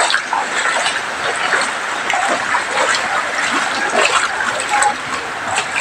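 Floodwater running and splashing: a steady rushing hiss with small scattered splashes.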